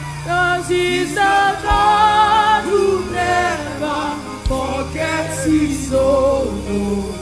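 Live gospel worship song: voices singing a sustained, melismatic line over a band with held bass notes, with a low beat every few seconds.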